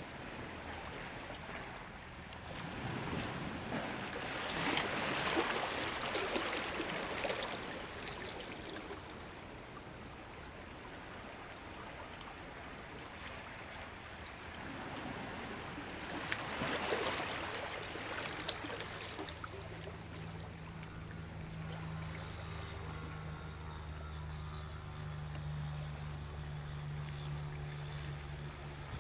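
Ocean waves washing ashore, the surf swelling twice and then ebbing. A low steady hum joins in about two-thirds of the way through.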